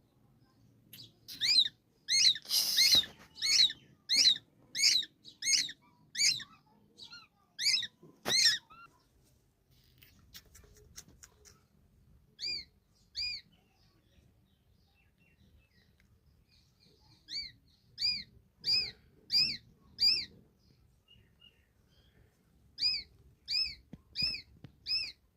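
Baby bird chirping: short, high, arched chirps repeated about every half second in bouts of several calls, with pauses of a few seconds between bouts.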